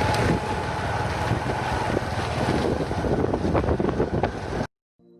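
Wind buffeting the microphone of a moving motorbike on a rough crushed-granite track, with some rattling ticks late on. It cuts off abruptly near the end, and soft ambient music begins.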